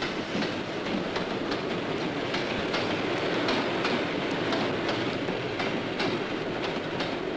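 Passenger train carriages running along the track, the wheels clicking steadily over the rail joints.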